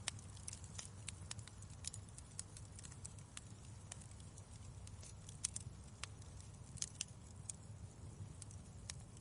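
Wood fire crackling in a fireplace: irregular sharp pops and snaps, a few louder than the rest, over a low steady rumble of the burning fire.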